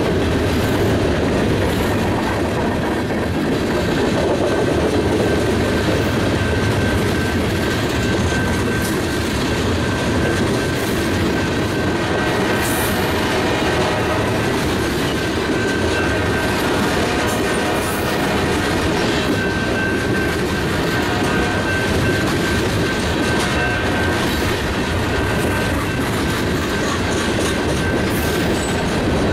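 Freight train's boxcars and tank cars rolling past close by: a steady loud rumble of steel wheels on the rails. A thin, steady, high squeal from the wheels runs through much of the second half.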